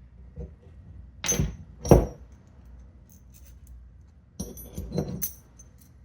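Small metal hardware, steering-wheel bolts and washers, clinking and knocking as it is handled: two knocks, then a quick cluster of ringing metallic clinks near the end.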